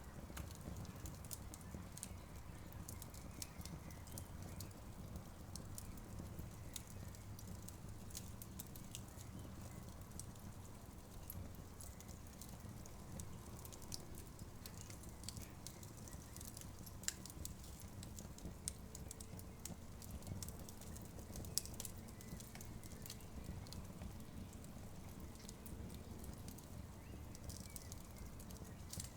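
Wood campfire burning, with frequent small crackles and pops over a low steady rumble; a few louder pops stand out midway.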